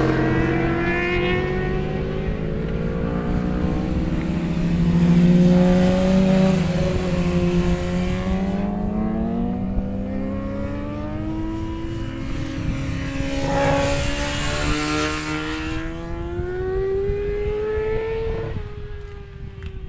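Several racing motorcycles lapping the circuit at high revs, their engines overlapping, each pitch climbing and dropping with the gear changes. The sound falls away near the end.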